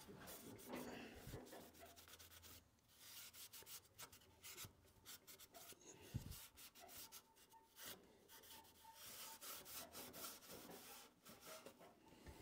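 Faint, irregular rubbing and scraping with small clicks, from hand work on the saw's parts.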